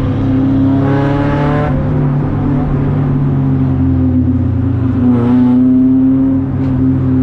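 Race car engine running steadily under way, with the revs briefly rising about a second in and again about five seconds in.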